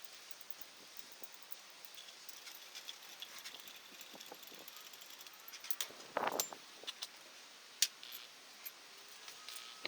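Scattered light metallic clicks and clinks from hand tools and metal parts being handled, with a short rattling clatter about six seconds in and one sharp click a little later, over a faint steady hiss.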